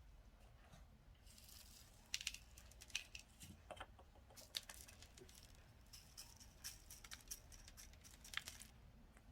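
Slime being squished and worked by hand close to the microphone: a dense run of small, sharp crackles and clicks starting about a second in and stopping near the end.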